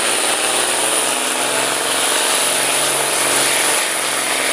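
Competition pulling truck's engine running hard and steady under load while it drags the weight sled, with a steady high-pitched whine over it.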